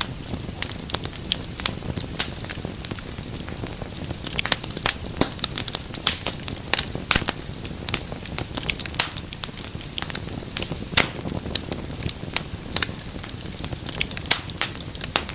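Wood fire crackling: a dense run of irregular sharp pops and snaps over a low, steady rush of flame.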